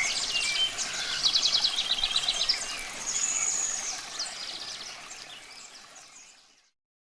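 Songbirds singing over a steady rush of running water: a rapid trill of short high notes about a second in and a held high whistle around three seconds in. The whole sound fades out to silence near the end.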